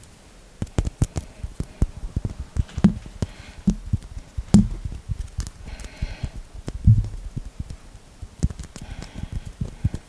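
Hand and finger sounds close to the microphone: quick, irregular finger taps and clicks with a few heavier thumps, starting about half a second in.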